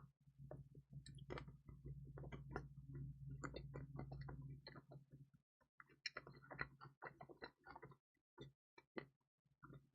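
Close-miked chewing of pizza: faint wet mouth clicks and smacks in irregular runs, densest about six seconds in, with a low steady hum underneath through the first half.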